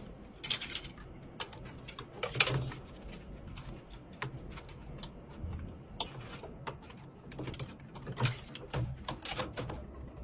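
Irregular clicks, taps and short rustles from computer parts being handled and fitted, the loudest about two and a half seconds in and again a little past eight seconds, over a faint low hum.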